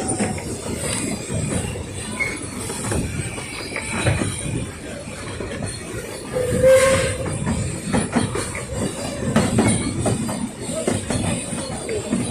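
Puffing Billy narrow-gauge steam train running along: an irregular clatter of wheels and rattling carriages, with one short high tone about six and a half seconds in.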